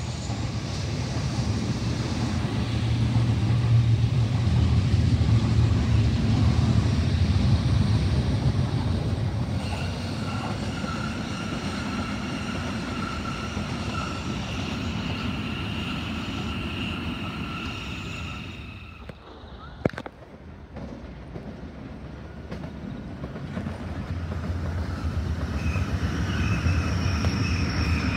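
Double-deck electric suburban trains passing close by, wheels rumbling on the rails, with a steady high whine from about ten seconds in. A sharp click comes about twenty seconds in, and another train's rumble and whine build toward the end.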